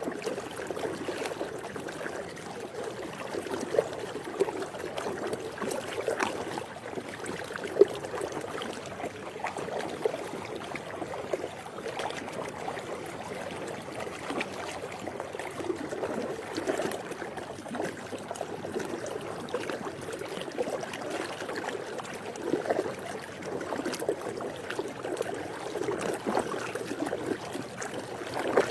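Swimming-pool water lapping and trickling in a steady wash, dotted with small irregular splashes and drips, one sharper splash about eight seconds in.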